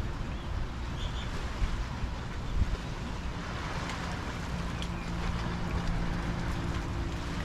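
Small waves washing in the harbor with wind rumbling on the microphone, one wash swelling about halfway through. A faint steady hum, as of a distant boat motor, comes in after about three seconds.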